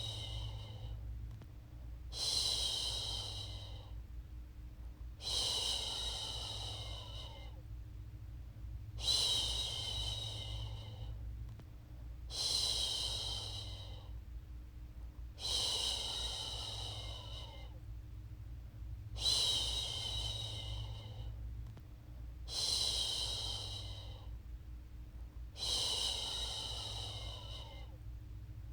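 A woman's voice shushing 'shhh' over and over, about nine times. Each shush starts sharply and fades over roughly two seconds, one every three to four seconds, over a steady low hum. It is the rhythmic shushing used to soothe a baby back to sleep.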